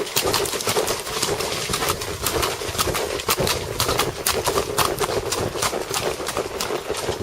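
Hoofbeats of a horse being ridden: a steady run of irregular clicks and knocks, several a second.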